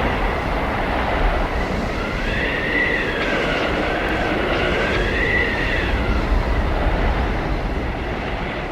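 Blizzard wind blowing steadily with a low rumble, and a howling whistle that rises and falls twice in the middle. It begins to fade out near the end.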